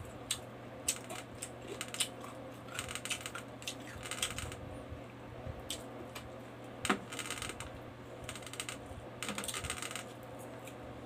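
Close-up eating sounds: chewing, lip smacks and sharp little mouth clicks coming in short clusters, over a faint low steady hum.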